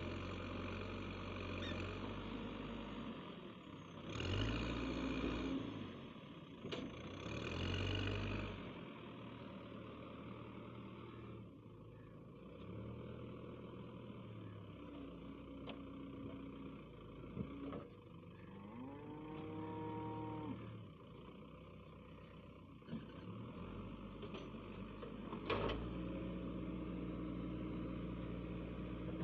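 Heavy diesel vehicle engine running, with two loud revs about four and seven seconds in and a shorter rising and falling whine a little past the middle.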